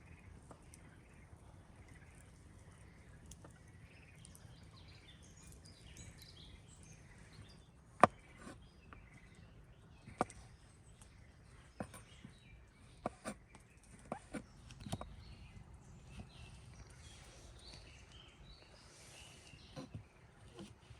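A dozen irregular sharp knocks and cracks, the loudest about eight seconds in and most of them bunched a little later, over a quiet outdoor background with faint bird calls.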